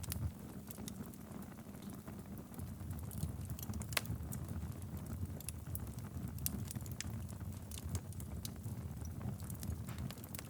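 Wood fire burning in a fireplace: a steady low rumble of flames with scattered sharp crackles and pops, the loudest about four seconds in.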